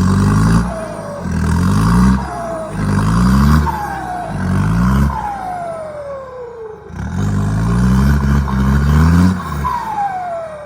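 Dump truck's turbocharged J07E diesel engine being revved hard in repeated bursts, about five, each lift-off followed by a falling turbo whistle; the two longest whistles come near the middle and near the end.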